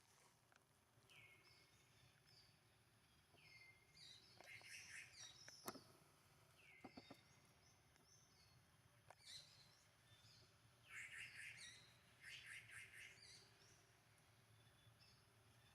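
Faint, high-pitched animal chirps: short notes that drop slightly in pitch, coming in clusters a few seconds apart, with a few sharp clicks among them.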